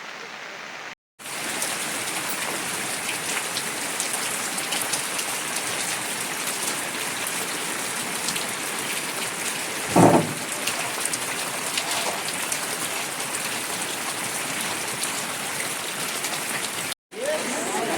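Heavy rain falling steadily, with a brief louder sound about ten seconds in. The rain cuts out for a moment twice, about a second in and near the end.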